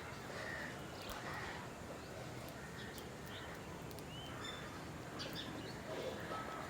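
Wild birds calling: short chirps and whistles from several birds, one a brief curved whistle a little after four seconds, over steady outdoor background noise.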